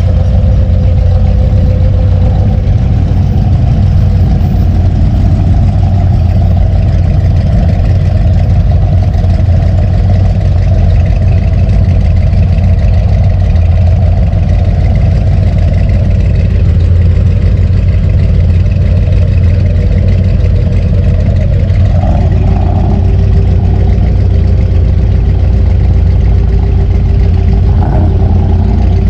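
A vehicle engine running with road noise, a loud steady low rumble with no break; a faint tone in it shifts slightly lower about three quarters of the way through.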